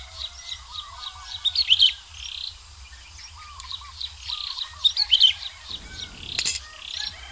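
Birds chirping and singing: quick high chirps over and over, with a lower warbled phrase that comes back every second or two. A single sharp click about six and a half seconds in.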